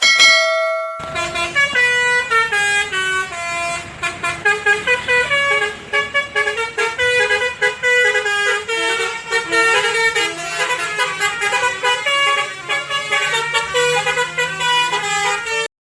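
Live band playing an instrumental song intro: a held chord, then a fast melody of quick notes from a bright, horn-like lead instrument over a low bass. It breaks off abruptly just before the end.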